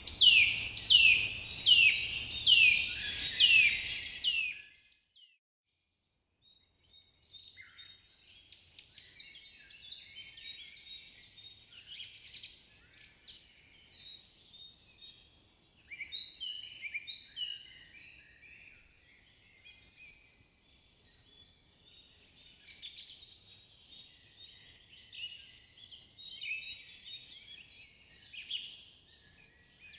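Birdsong. For about four seconds a bird repeats a loud, falling whistle about twice a second. It breaks off into a short silence, then fainter, scattered chirping of several birds takes over.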